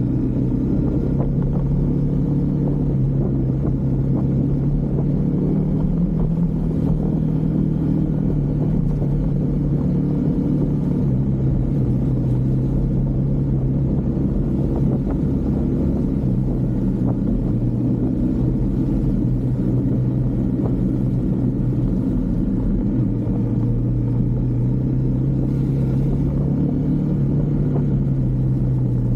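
Husqvarna Svartpilen 401's single-cylinder engine running steadily under way, its pitch rising a little a few seconds in and easing back down around ten seconds in.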